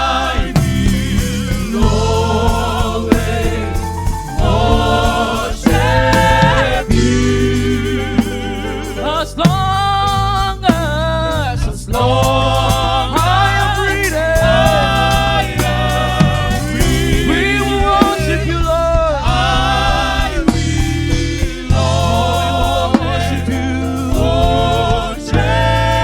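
Live gospel praise music: sung phrases, voices in a choir-like blend, over a sustained bass and band accompaniment.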